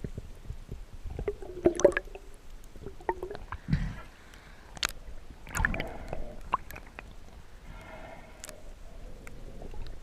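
Water sloshing and gurgling close to the microphone, with scattered sharp clicks and knocks and short bubbly bursts.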